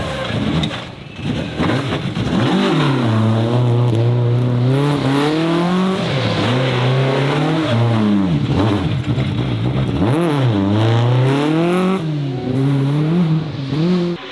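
A high-performance car engine revving hard under load. Its note is held high, then falls and climbs again several times as the throttle is worked.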